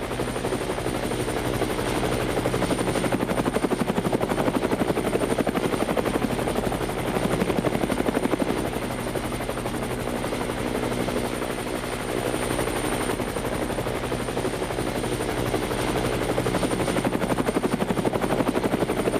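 Helicopter rotor beating steadily and rapidly overhead.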